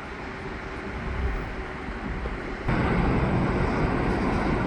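EXO commuter train with an F59PH diesel locomotive moving off along the tracks, a steady rushing rumble that turns abruptly louder a little over halfway through.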